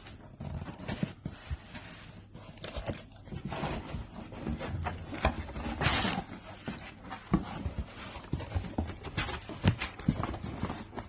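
Cardboard box and packaging being handled and opened: irregular rustling and scraping with soft knocks.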